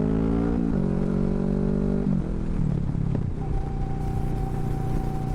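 Kawasaki Vulcan S parallel-twin engine through a Hoonk twin exhaust, ridden on the road. The engine note climbs, drops about a second in and again after about two seconds as the bike shifts and slows, then settles into a lower steady note. A thin steady whine comes in past the middle.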